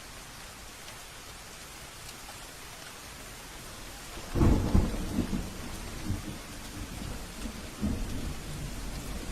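Steady rain with a sudden loud thunderclap about four seconds in, after which the thunder keeps rumbling low under the rain.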